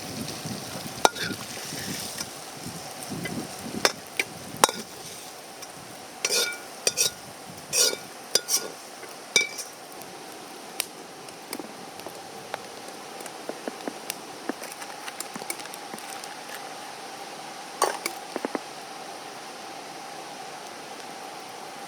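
Food sizzling in a wok over a campfire, with a metal spatula or ladle clinking and scraping against the wok. There are scattered clicks, a run of ringing metal strikes in the middle, and a few more later.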